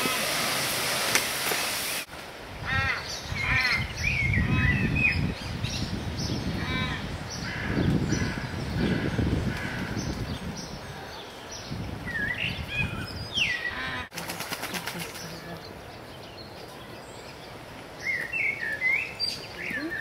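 Small birds chirping and calling in an aviary, many short calls and chirps, over a low rumbling background.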